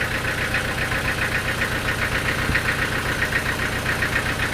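Engine running steadily at a constant speed with a rapid, even pulsing, as on the engine-driven machinery of a sawmill.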